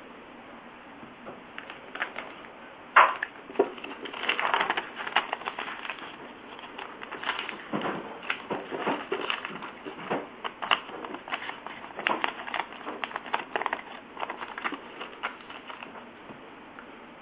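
A sheet of paper being handled, folded and creased by hand: irregular crackling and rustling, with a sharp snap about three seconds in.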